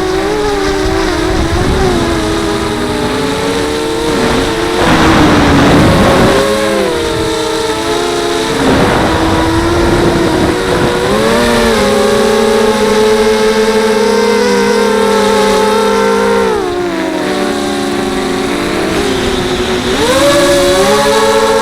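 Motors and propellers of a 250-size FPV racing quadcopter whining in flight, several tones rising and falling together with the throttle. There are louder rushing bursts about five and nine seconds in.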